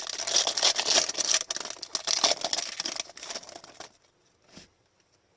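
A hockey trading-card pack wrapper being torn open and crinkled for about four seconds, stopping suddenly, with a soft knock shortly after.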